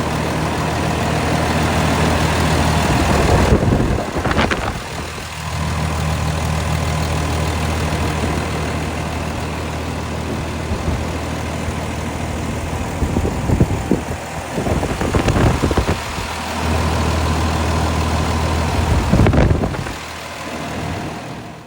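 Kenworth T370 dump truck's 8.9-litre PACCAR PX9 inline-six diesel idling steadily. It is broken by a few short, louder rushes of noise about four seconds in, in the middle, and near the end.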